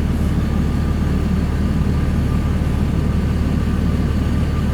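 Truck engine running steadily with road noise as the truck is driven.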